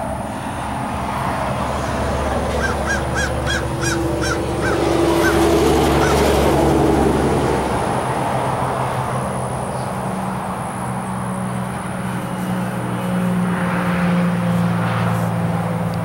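Outdoor ambience: a bird calls a quick run of about eight short notes a few seconds in, over a low steady motor hum that swells in the middle and carries on to the end.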